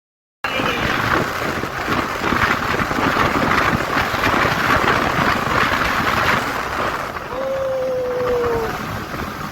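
Wind buffeting the microphone and traffic noise on a moving motorcycle. The sound starts abruptly just after the beginning, and a single steady tone is held for about a second and a half near the end.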